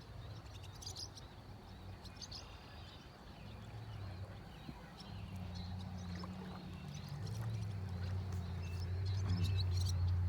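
Birds chirping in short calls over a low, steady engine-like hum that grows steadily louder through the second half.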